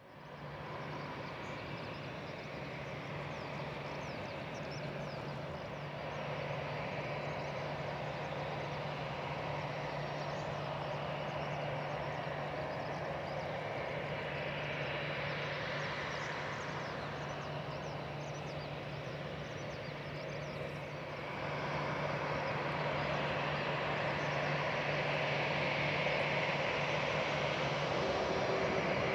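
Airbus A320's CFM56-5A1 jet engines running, a steady wash of noise over a low hum, getting louder about two-thirds of the way through.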